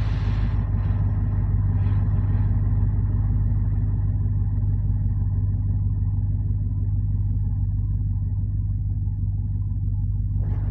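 BMW 645Ci's 4.4-litre V8 idling steadily with a low, even hum on a cold engine.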